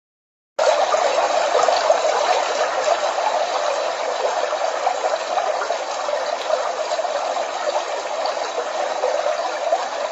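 Dreamegg Pocket Sleep 1 mini white noise machine playing a steady rushing noise. It starts abruptly about half a second in and cuts off near the end.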